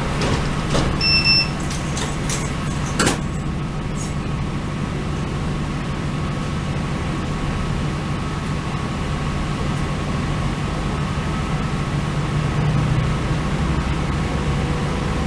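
Steady low drone of a diesel passenger train running, heard from inside the carriage. In the first few seconds come a short high beep and several knocks and rattles, the sharpest about three seconds in.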